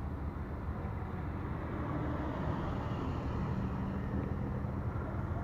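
A car engine running at low revs, fairly steady, growing a little louder toward the end.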